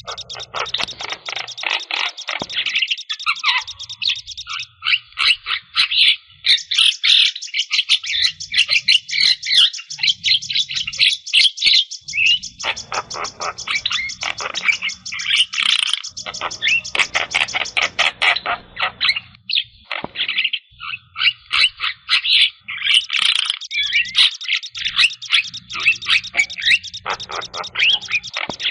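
Black-winged starling (jalak kebo) singing without pause: a fast, chattering stream of harsh whistles and rattling notes, broken by brief gaps.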